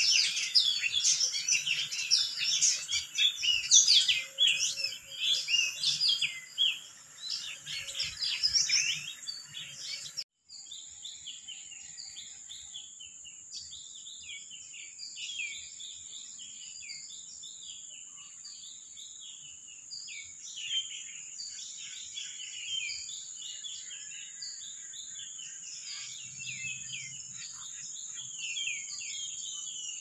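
Many wild birds chirping and twittering in quick short notes, loud and dense for the first ten seconds. About ten seconds in the sound cuts briefly, and fainter chirping continues over a steady high-pitched whine.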